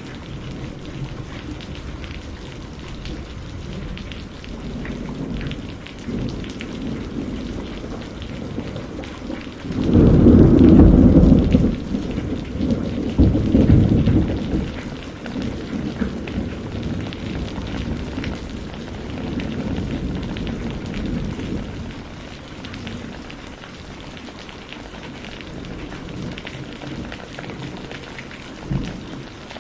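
Steady rain falling. About ten seconds in, a deep roll of thunder swells up, is loudest for a couple of seconds, and rumbles on while fading over the next ten seconds. A short low thud comes near the end.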